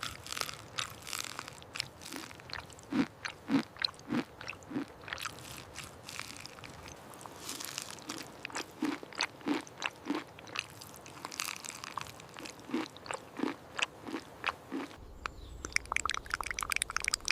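A person chewing and crunching a bite of toasted sandwich close to the microphone, in a steady rhythm of a little under two chews a second. Near the end it gives way to denser crackling over a low hum.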